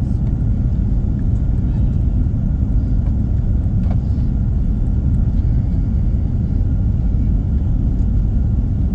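Steady low rumble inside the cabin of a four-engine Airbus A340-300: engine and airflow noise heard from the passenger seats.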